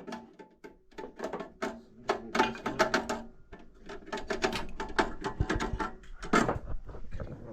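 Small metal furnace parts being handled, a quick irregular run of clicks and clinks.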